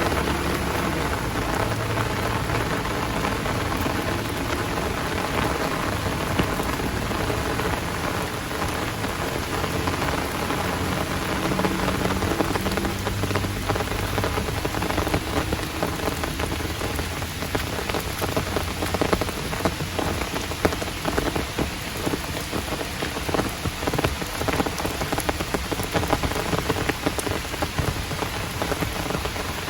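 Heavy rain pouring down, with a dense patter of individual drops striking close by and a low rumble underneath in the first half.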